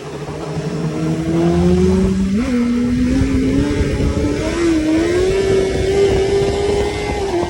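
Honda CBR1000RR's inline-four engine with an Arrow aftermarket exhaust, revving under load: the pitch climbs steadily, jumps up about two and a half seconds in, rises further and holds high, then falls off sharply near the end.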